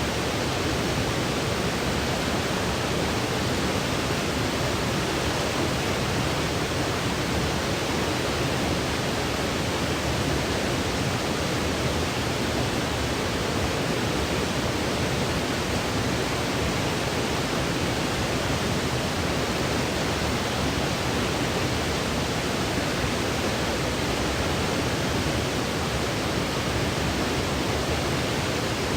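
Steady synthetic noise played as a sleep aid, an even hiss weighted toward the low end, unchanging throughout.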